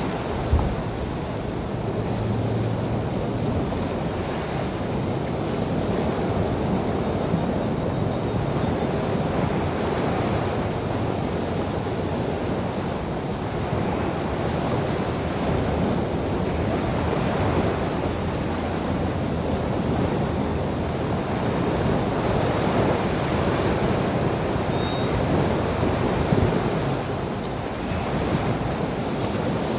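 Sea waves breaking and washing on a shore, a steady rushing that swells and eases, with some wind on the microphone.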